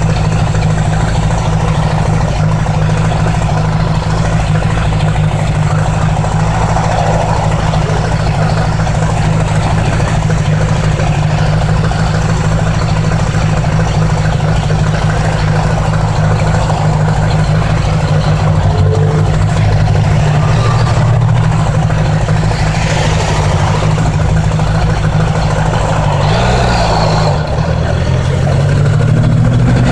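1980s Honda Gold Wing's flat-four engine running at a steady cruise. Near the end its pitch drops briefly, then climbs steadily as the bike accelerates.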